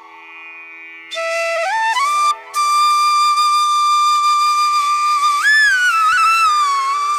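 Background music: a flute playing a slow melody with long held notes and pitch slides over a steady drone, entering about a second in.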